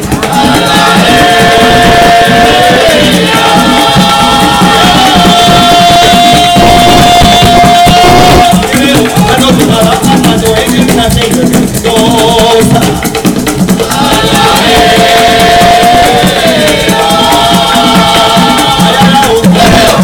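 Folk music with voices singing long held notes over shaken maracas and drums.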